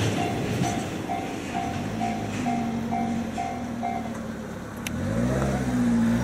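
Japanese railway level-crossing warning bell ringing in even pulses about twice a second, stopping about four seconds in as the crossing clears. A road vehicle's engine then pulls away, rising in pitch near the end.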